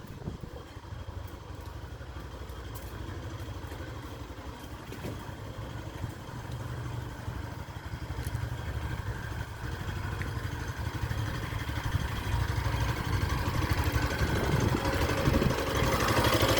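Yamaha Factor 150's single-cylinder four-stroke engine idling steadily and getting louder toward the end. The owner takes it for an ugly engine noise the bike has had from the factory.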